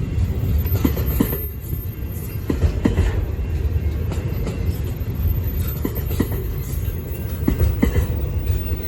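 Diesel-hauled freight train running past: a heavy, steady low rumble with irregular clicks of wheels going over the rail joints.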